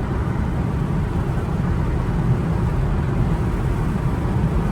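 Steady low road and engine rumble inside an Infiniti car's cabin while it is being driven.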